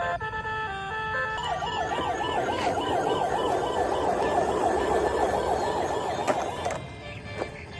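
Electronic toy siren warbling quickly, about three wobbles a second, that cuts off abruptly about a second before the end. A short electronic tune plays before it starts.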